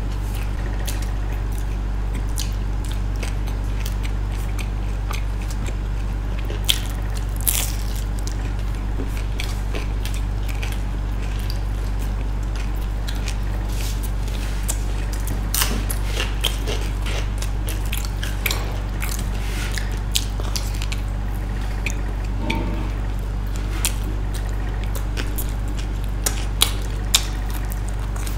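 Close-miked eating of pizza: biting and chewing, with scattered sharp crunches and wet mouth clicks over a steady low hum.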